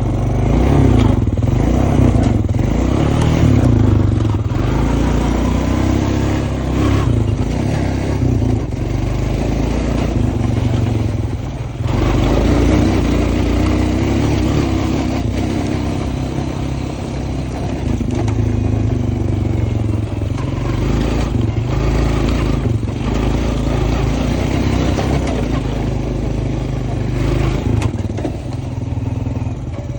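Honda Foreman ES utility ATV's single-cylinder four-stroke engine running as the quad is ridden, its level rising and falling with the throttle, with a brief drop about twelve seconds in.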